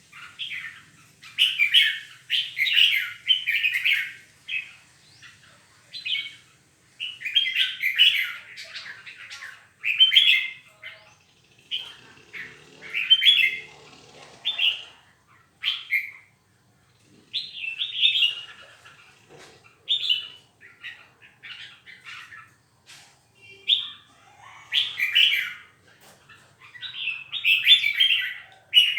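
Caged songbird singing in repeated bursts of quick, chattering phrases, each lasting a second or two, with short pauses between them.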